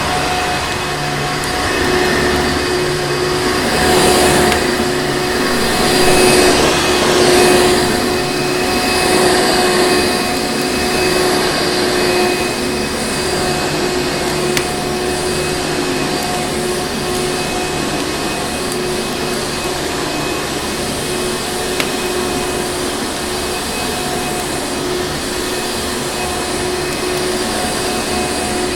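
Vacuum cleaner motor running steadily: a rushing air noise with a high, constant whine. It swells louder from about four to eight seconds in, and there are a couple of faint clicks later.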